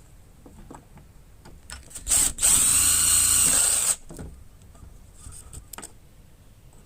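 Power drill: a short burst, then it runs steadily at one pitch for about a second and a half and stops.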